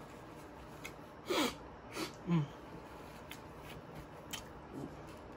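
A person eating: quiet chewing and wet mouth clicks, with a couple of short, low closed-mouth 'mm' hums about two seconds in.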